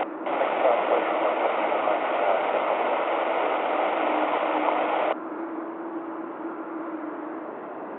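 Air-band radio static: an open transmission carrying only hiss, with a brief break at the start, that cuts off abruptly about five seconds in and leaves a fainter steady hiss with a low hum.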